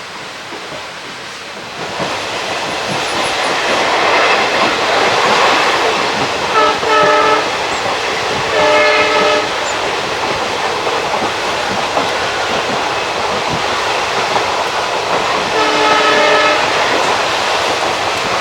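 Express train of ICF coaches running, the wheel and coach noise growing louder about two seconds in. The horn sounds three times, about a second each: two blasts close together, then one more near the end.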